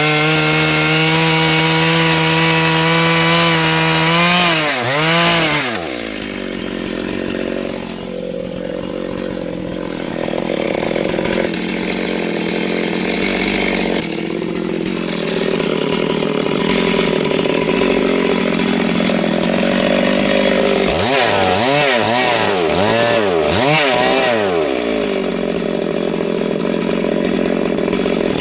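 Chainsaw running at high revs, its note dropping off about five seconds in. A long stretch of rough, steady noise follows, and near the end the throttle is blipped up and down four or five times.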